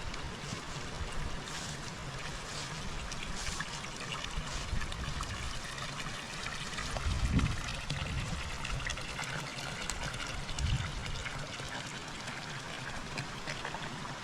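River water trickling and flowing steadily. Two low bumps rise above it, the louder one about halfway through and a smaller one later.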